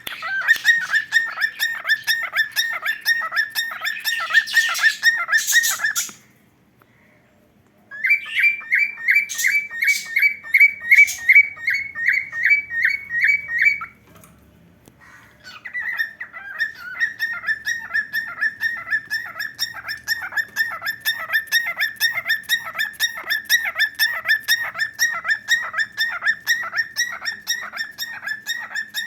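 Cockatiel giving long runs of rapid, evenly repeated short chirps, several a second. The runs break off twice for a second or two, and the middle run is pitched a little higher.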